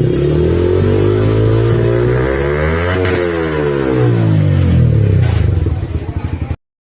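Yamaha R15 V4 motorcycle's single-cylinder engine with a modified exhaust, running at fairly steady revs as it rides past close by, nearest about three seconds in. The sound cuts off suddenly near the end.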